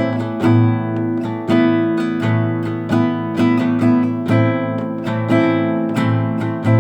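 Classical guitar playing a slow instrumental passage, chords and plucked notes struck about once or twice a second and left to ring into each other.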